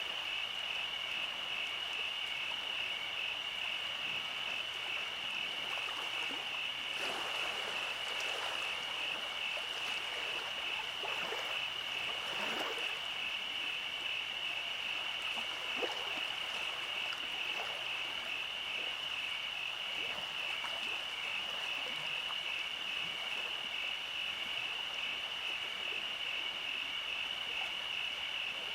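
Night chorus of calling animals: a steady, high-pitched pulsing chirr that never lets up, over a soft hiss. A few faint crackles come through in the middle.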